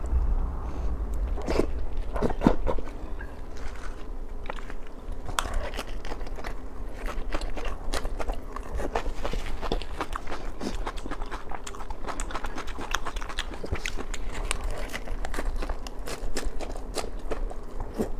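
Close-miked mouth sounds of a person chewing pork belly in spicy sauce: a steady run of small wet clicks as they chew, with a couple of stronger bites near the start.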